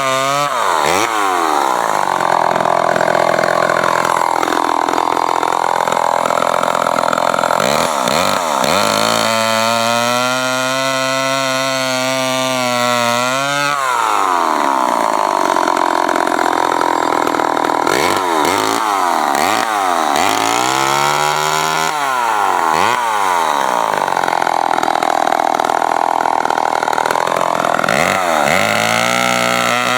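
Remington SL9 two-stroke chainsaw running, revved up and held at high speed for several seconds, then dropping back to idle. It is revved again, blipped three or four times in quick succession around the middle, revved once more, and settles back to idle near the end.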